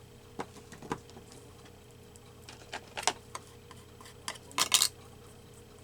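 Scattered light taps, clicks and paper rustles of hands pressing and handling a glued paper cut-out, with a denser cluster of crinkles about four and a half seconds in, over a faint steady hum.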